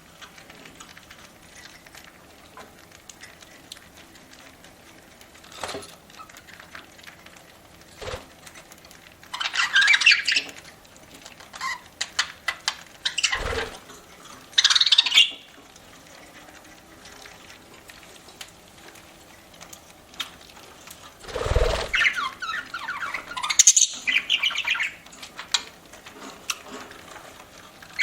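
Budgerigars calling in several short bursts of chattering squawks, with faint clicks in the quieter stretches between.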